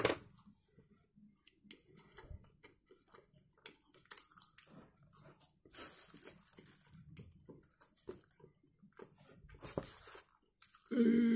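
Close-up chewing of a soft chocolate-glazed donut: quiet wet mouth sounds and small smacks, with a brief louder rustle near the end.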